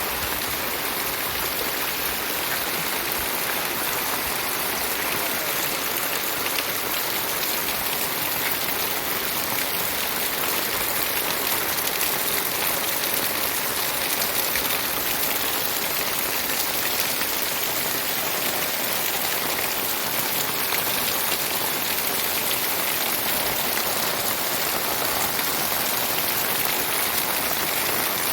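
Heavy rain falling steadily, pattering on surfaces, with runoff water flowing hard.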